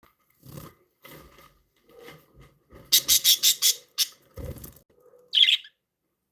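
Pet budgerigars chirping in short, scattered calls, with a quick loud run of about five sharp chirps midway and one last chirp near the end. A soft low thump comes between them.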